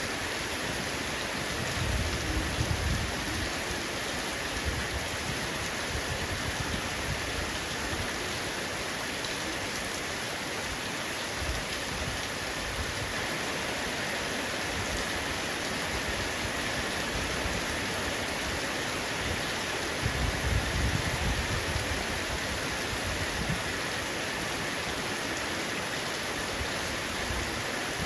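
Heavy rain falling steadily on a roof, a dense even hiss of raindrops. A low rumble swells up twice, about two seconds in and again some twenty seconds in.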